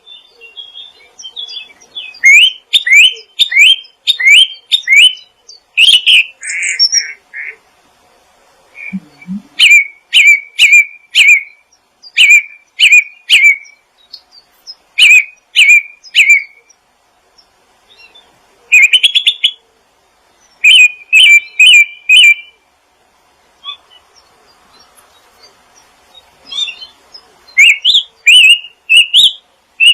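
A small songbird chirping in quick runs of short, sharp, repeated notes, with pauses of a second or more between runs.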